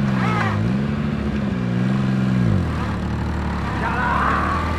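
Maruti 800's small three-cylinder petrol engine revving: the revs rise, dip briefly under a second in, rise again and hold, then fall to a steady lower speed about two and a half seconds in. A higher whine comes in near the end.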